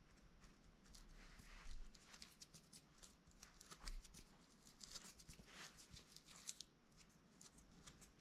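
Near silence, broken by faint scattered clicks and soft rustles of small parts being handled.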